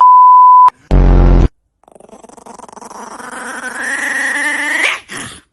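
A censor bleep cuts off a swear word, followed by a short, loud, distorted low blast. Then a dog howls in one long call that slowly rises in pitch and grows louder before stopping.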